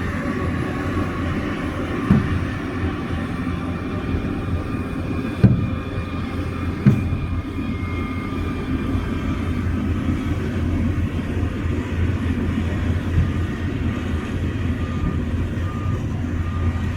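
Bulldozer's diesel engine running steadily under load, with three sharp metallic clanks about two, five and a half, and seven seconds in.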